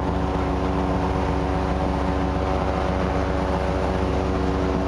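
Ship's machinery running with a steady drone, several level tones over a low rumble.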